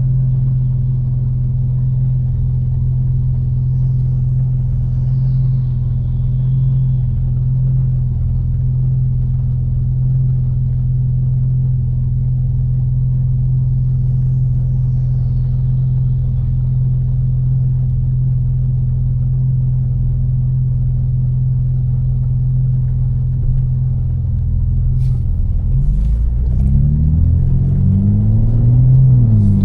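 Tuned BMW M4 twin-turbo inline-six, with catless downpipes and a Fi exhaust, cruising at a steady drone; a few seconds before the end its pitch rises and falls a few times as it changes gear and picks up speed, with a few sharp clicks just before.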